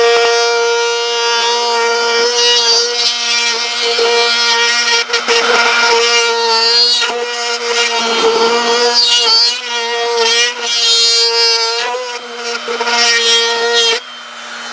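Dremel rotary tool cutting plywood: a steady, high motor whine that sags and wavers in pitch several times as the bit is loaded in the wood, then drops to a quieter steady whine near the end.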